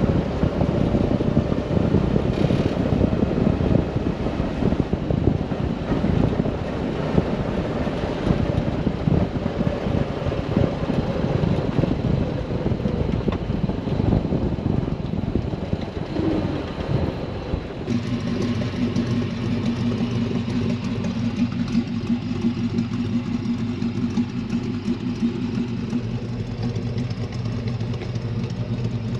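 1970 Toyota Land Cruiser's straight-six engine running on the move, mixed with road and wind noise. About two-thirds of the way through the sound switches suddenly to the engine idling with a steady, even note.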